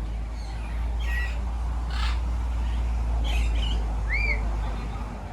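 Parrots squawking: five or six short calls spread out, with one rising-and-falling whistle about four seconds in, over a steady low rumble.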